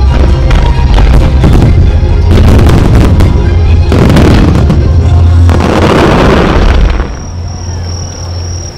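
Finale of a music-synchronised starmine: a rapid barrage of aerial firework shells booming and crackling over music from the show's loudspeakers. The barrage stops abruptly about seven seconds in.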